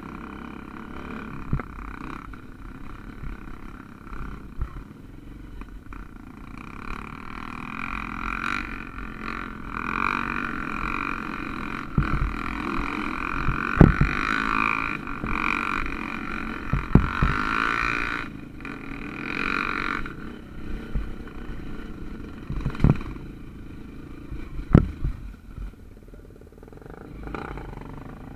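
Off-road motorcycle engine running while riding a dirt trail, rising and falling, with several sharp knocks along the way.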